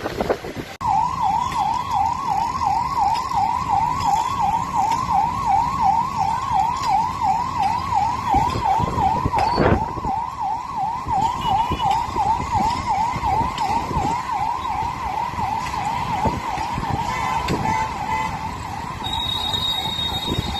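Emergency-vehicle siren in a fast yelp, its pitch rising and falling about three times a second, starting about a second in and running on over road traffic noise.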